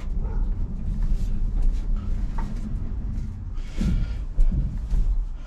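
Steady low rumble of the 1985 Ford F250 rolling with its engine dead, coasting on its tyres with no power.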